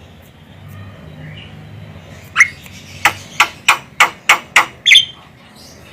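Javan myna (jalak kebo) giving a quick run of about eight short, sharp call notes, roughly three a second, starting about two seconds in. Faint chirps and a low hum come before it.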